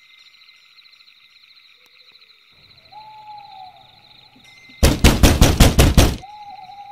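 Loud, rapid banging on a wooden door, about eight blows in under a second and a half, over a steady night chorus of frogs or insects. A falling hoot sounds about three seconds in and again just after the banging.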